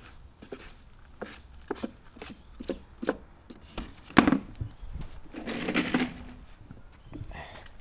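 Scattered knocks and clicks of the mower's plastic grass catcher being handled, with one loud knock about four seconds in and a short rustle just before six seconds.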